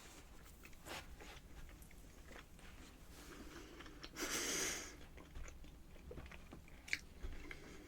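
Quiet eating sounds close to the microphone: chewing with small wet mouth clicks. A louder rushing sound about half a second long comes a little after four seconds in.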